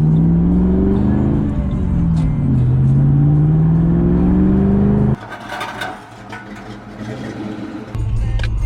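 Car engine accelerating hard, its pitch climbing, dropping at a gear change about two seconds in, then climbing again. It cuts off abruptly about five seconds in, and a low engine rumble returns near the end.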